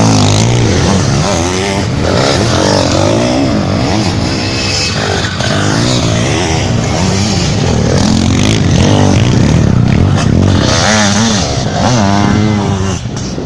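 Several motocross bikes racing, their engines revving up and dropping back again and again as the riders work the throttle and shift, with the engine notes overlapping.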